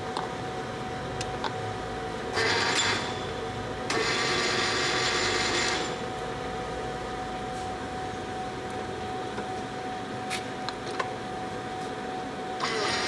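Poreba TPK-80 engine lathe running with a steady hum and a single steady whine. About two and a half seconds in, and again at four seconds for about two seconds, a louder grinding mechanical noise comes in as the carriage is driven under power.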